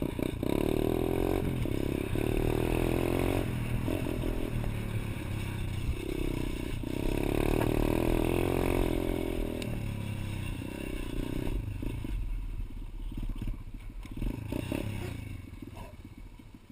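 Pit bike engine revving in several surges that rise and fall in pitch, growing quieter near the end.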